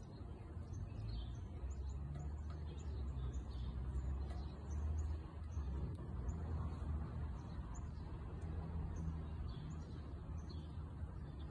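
Small birds chirping now and then, short high chirps scattered throughout, over a steady low rumble.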